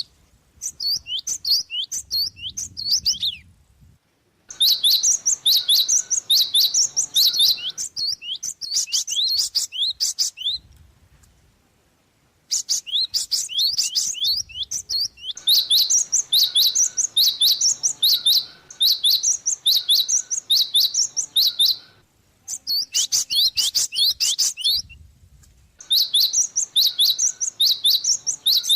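Java sparrow (gelatik) chirping in fast runs of short, high notes, several seconds at a time with brief pauses between the runs.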